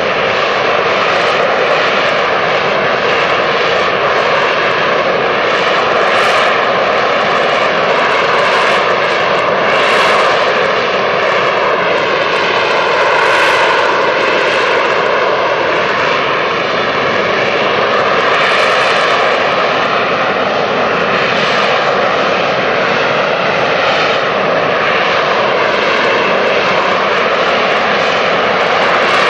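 AV-8B Harrier II jet engine running loud and steady for the whole stretch. It is a dense rushing noise with faint tones that drift slowly up and down in pitch.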